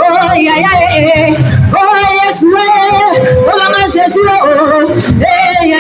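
Loud music with a woman singing in phrases of about a second, holding wavering notes over a low accompaniment.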